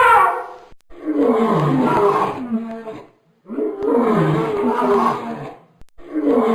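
A large animal's roaring calls: two long, rough roars falling in pitch, each about two and a half seconds, and a third beginning near the end.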